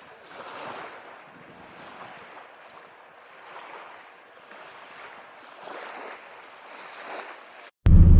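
Small waves washing onto a shore, rising and falling every second or so, with some wind. Near the end it cuts off suddenly to the loud low rumble of a vehicle engine.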